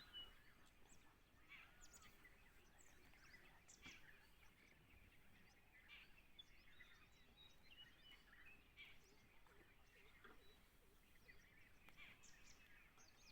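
Near silence in the forest, with faint scattered bird chirps and short whistled calls over a low background hiss.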